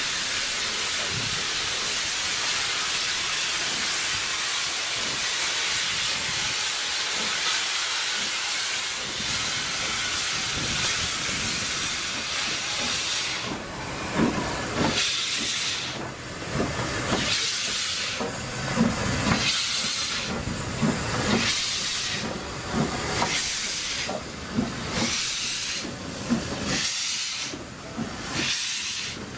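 Steam locomotive letting off a steady hiss of steam, then starting away: exhaust chuffs begin about halfway through at roughly one a second, with steam hissing between the beats.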